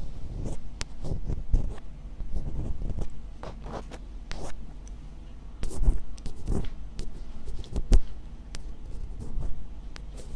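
Close-miked ASMR scratching: irregular quick scraping strokes with scattered sharp clicks.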